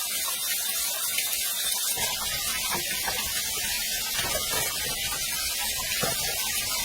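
Steady rushing hiss of falling water from a waterfall, even and unbroken.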